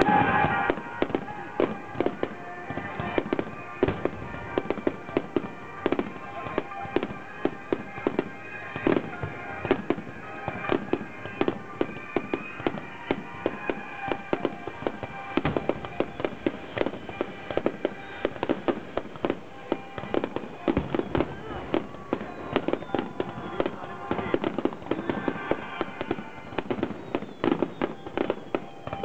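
Fireworks going off in rapid succession: many sharp pops and bangs every second, with crackling, over faint music.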